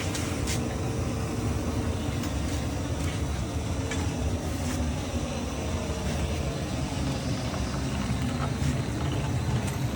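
Steady low drone of a diesel-fired foundry furnace's burner running, with a steady hum over it and a few faint clicks as a bottle jack is cranked.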